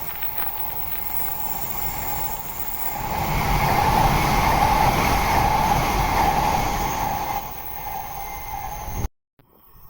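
Shinkansen bullet train passing at speed: a rushing rumble of wheels on rail that swells about three seconds in, holds loud for a few seconds, then eases. The sound cuts off suddenly near the end.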